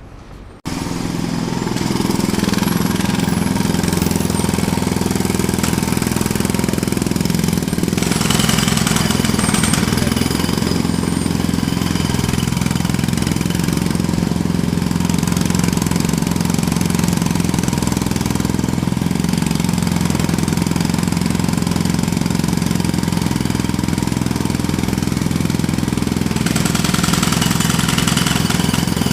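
Jackhammer starting suddenly about half a second in, then hammering loud and steady without a break.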